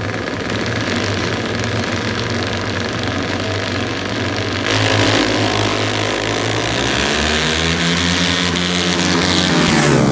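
Drag-race car engines rumbling at the line, then a sudden loud launch about five seconds in, with the engine pitch climbing steadily as the cars accelerate away and falling off near the end.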